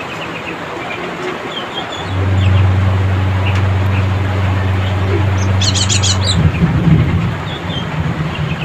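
Cinereous tit (gelatik batu) chattering: scattered short high chirps and, about six seconds in, a fast run of sharp notes, about ten a second. Under it runs a steady low hum that starts about two seconds in.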